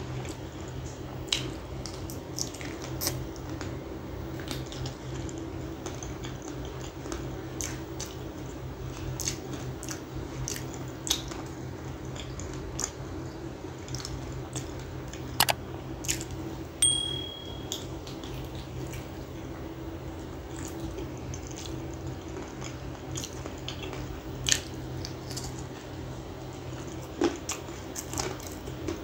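Close-up chewing and biting of chicken, with scattered short smacks and clicks from the mouth and fingers over a steady low hum. A brief high beep sounds once, a little past the middle.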